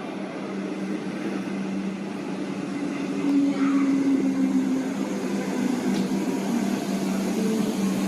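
Melbourne Metro electric suburban train running, a steady low hum over a wash of rolling noise. A second, higher tone comes in for a while near the middle, and it gets louder about three seconds in.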